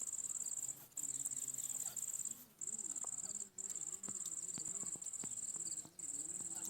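An insect trilling at a single high, steady pitch in stretches of about one to two seconds, broken by short pauses.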